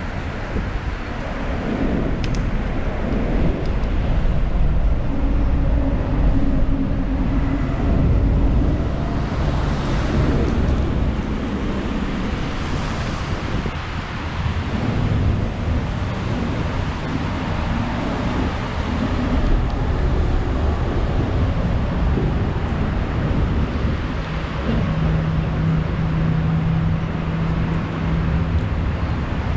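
Wind rushing over the microphone of a moving bicycle, with road traffic going by. Steady engine hums from passing vehicles come and go, one of them near the end.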